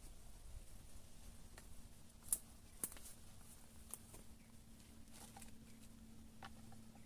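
Wood fire crackling with scattered sharp pops and clicks, the loudest about two seconds in, over a faint steady low hum.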